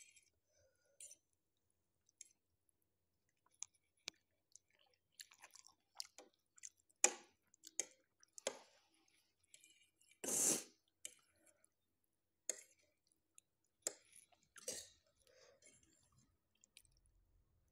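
Close-miked chewing of Korean spicy instant noodles, with small clicks of metal forks against the plate. A louder sound comes about ten seconds in.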